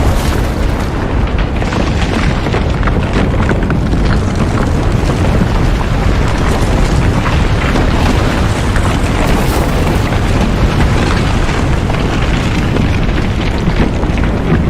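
Loud, continuous low rumbling with dense crackling throughout, a steady sound-effect bed with no breaks.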